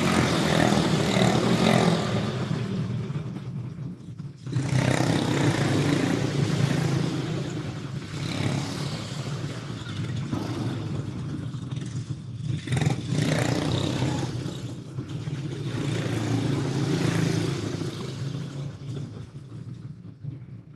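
Several single-cylinder racing kart engines running on track, swelling and fading as the karts pass and change throttle. There is a short lull about four seconds in, and the sound fades near the end.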